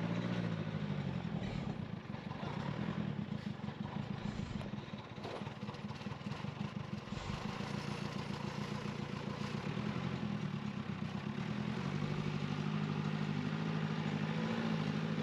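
Diesel engine of a backhoe excavator running steadily under light load while it levels soil, with a slight dip in level about four to five seconds in.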